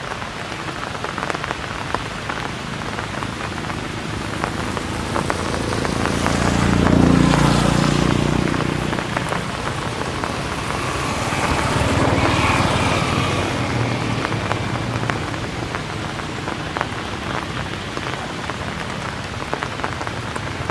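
Steady rain falling, a continuous hiss dotted with fine drop ticks. Two louder swells rise and fade, the first and deeper about seven seconds in, the second about twelve seconds in.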